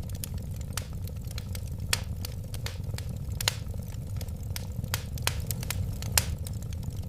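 Wood fire burning in a fireplace: a steady low rumble of flames under irregular sharp crackles and pops, a few of them louder, the loudest about two seconds and three and a half seconds in.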